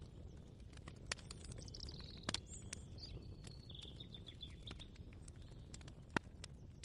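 Quiet kitchen ambience: scattered light clicks and knocks over a low steady hum, with one sharp click near the end. A bird sings a short chirping song of high sliding notes from about a second and a half in to nearly five seconds in.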